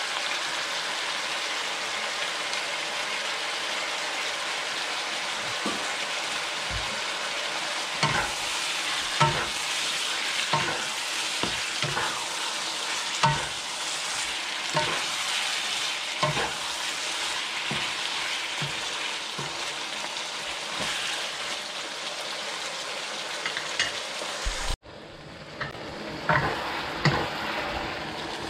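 Chicken pieces and raw chicken liver sizzling in butter in a nonstick pan, stirred with a spatula that scrapes the pan about once a second. Near the end the sizzle cuts off for an instant and comes back duller.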